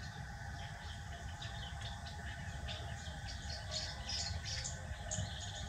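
Birds chirping outdoors in quick, short, high notes that grow busier toward the middle, over a steady low rumble.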